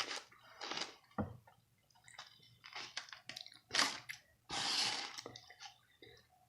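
Close-miked chewing and wet mouth sounds of someone eating: irregular short smacks and squishes, with a longer breathy hiss about halfway through.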